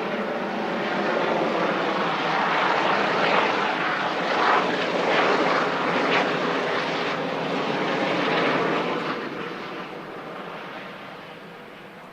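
Airbus Helicopters H145 in flight, the rotor and turbine sound swelling loud and then fading steadily over the last few seconds as the helicopter departs.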